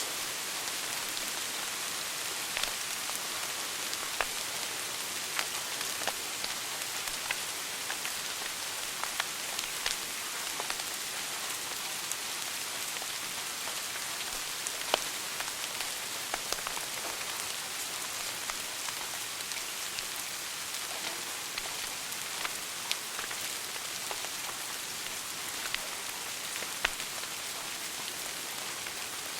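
Wood fire burning in a fireplace: a steady hiss with frequent sharp crackles and pops at irregular intervals.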